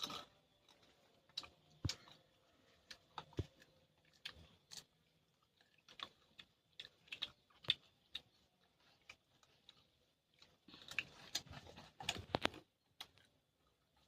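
Close-miked crunchy chewing of raw guava: irregular crisp bites and chews, with a denser run of crunching about eleven seconds in.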